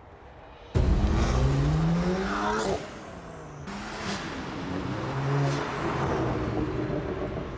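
BMW 1M Coupe's twin-turbo straight-six engine accelerating hard, starting suddenly about a second in. The revs climb, drop back, then climb again.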